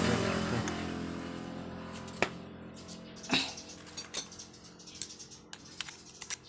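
Scattered sharp clicks and light metallic knocks of tools and small engine parts being handled on a work surface, about a dozen over a few seconds. Under the first couple of seconds a passing vehicle's engine hum fades away.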